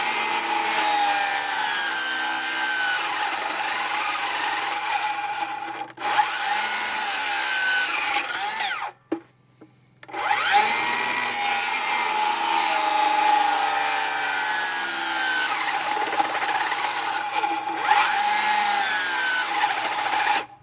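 Cordless power tool cutting into wood in three long runs, each starting with a rising spin-up and stopping abruptly, about 6 s and 8 s in. Its battery is weakened by the deep cold, and the tool is starting to die out.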